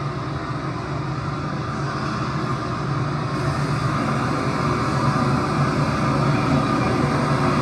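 Recorded sound of a train running into an underground station platform, played back through karaoke speakers: a steady rumble with a low hum, growing slightly louder.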